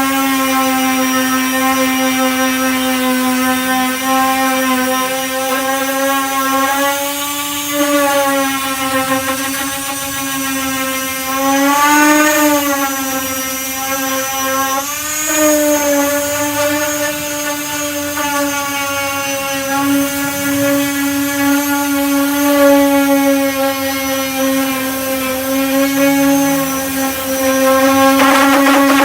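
Power sander with a 240-grit disc running steadily as it sands body filler, with a constant high hum. Its pitch dips and wavers briefly twice near the middle, as the disc is pressed harder into the work.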